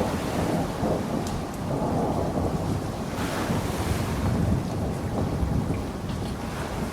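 Steady rain falling, with a deep rumble underneath and a brief swell of hiss about three seconds in.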